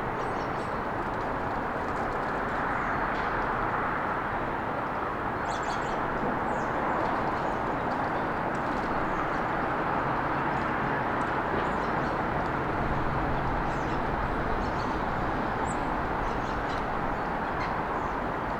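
Steady hiss of passing road traffic that swells and eases slowly, with small birds giving faint, short, high chirps throughout.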